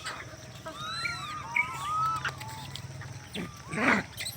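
A chorus of many short, overlapping animal calls that rise and fall in pitch, with a louder, harsher call near the end.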